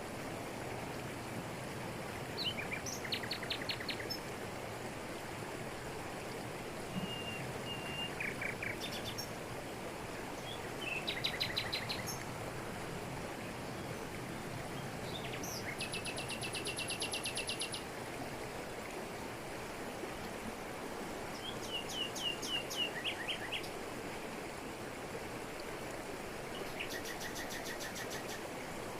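Steady rush of a jungle waterfall over rocks, with a bird calling over it in about six short phrases of rapid, evenly repeated high notes.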